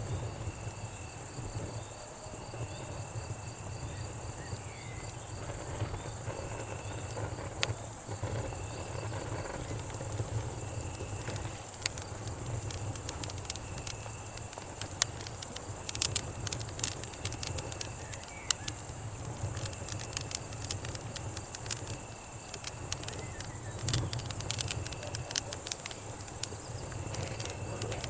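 Summer-night insects: a steady high-pitched cicada drone with crickets chirping in short repeated bursts, over a campfire crackling with scattered sharp pops that grow denser in the second half. A low steady rumble sits beneath.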